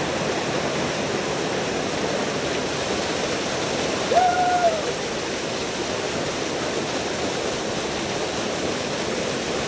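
Waterfall rushing steadily. About four seconds in, a single short call sounds over it, sliding up in pitch and then held briefly.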